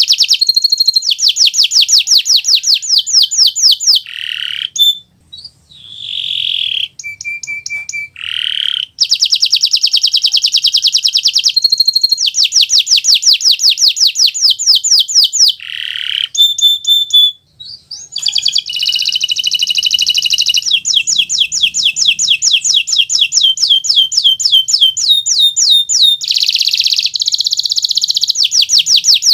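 Domestic canary of the Kenari Nusantara strain singing vigorously: long runs of fast repeated trills and rolls. The song breaks briefly into softer buzzy notes about four to nine seconds in and again a little past the middle.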